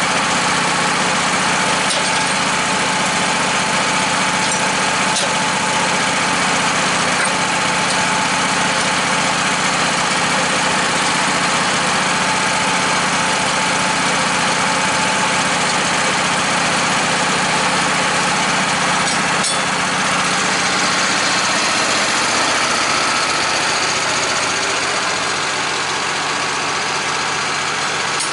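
Portable sawmill's engine running steadily under way through a log cut, dropping a little in level about three-quarters of the way through.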